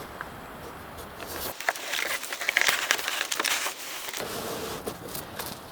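Crinkling and rustling of material being handled, with many small crackles, busiest from about one and a half to four seconds in.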